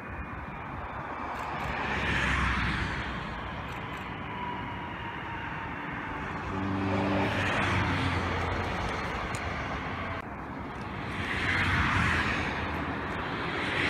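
Regional passenger train passing on the line: a rushing rolling noise that swells and fades, with a short hum from its drive about seven seconds in. The sound drops abruptly about ten seconds in and a further swell of passing noise follows.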